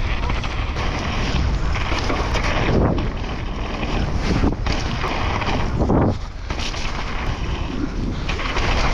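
Wind buffeting the microphone of a camera carried on a downhill ride, over a steady low rumble from a bike rolling over rough, wet ground.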